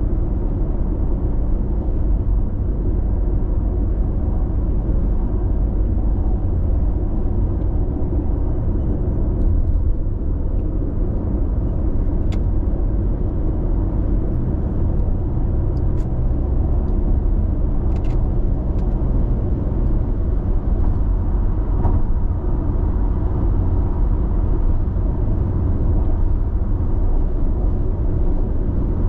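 Steady road noise of a car cruising on an expressway, heard from inside the cabin: an even low tyre and engine rumble with no change in pace. A few faint ticks come through about midway.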